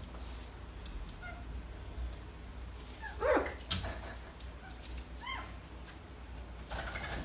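A parrot giving a few short calls with gliding pitch, the strongest about three seconds in and more near the end, with faint clicks between them.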